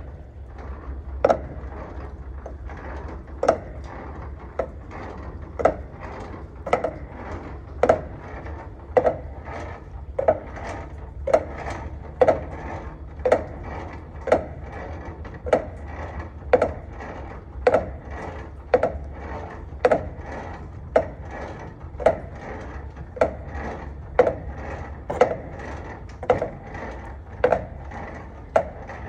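Semi-trailer landing gear being cranked down by hand: a sharp clack about once a second with each turn of the crank, over a low steady rumble.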